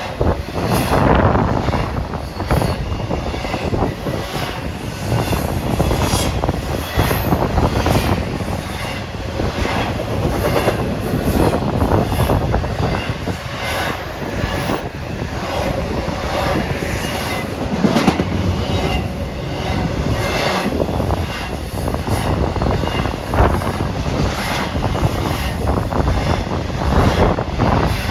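Norfolk Southern intermodal freight train rolling past close by: a continuous rumble of steel wheels on rail, with repeated clicks as the wheels cross rail joints.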